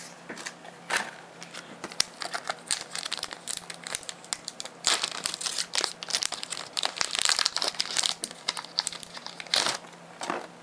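A foil Pokémon trading-card booster pack wrapper crinkling as it is torn open and handled. The crackling comes in irregular bursts and is densest in the middle.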